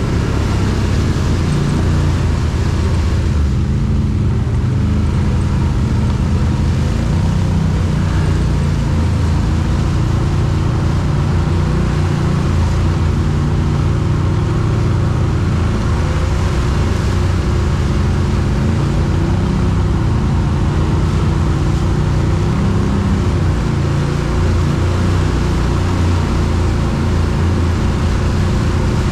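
ATV engine running continuously, its pitch rising and falling with the throttle.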